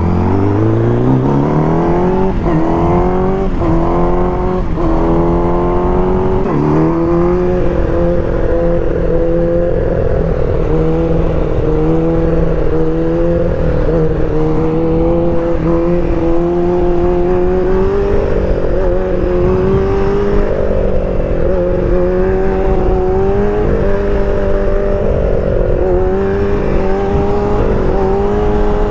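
1000cc sport bike engine accelerating hard, revving up and shifting up about four times in quick succession in the first seven seconds, then running at steady cruising revs with small rises and dips in throttle.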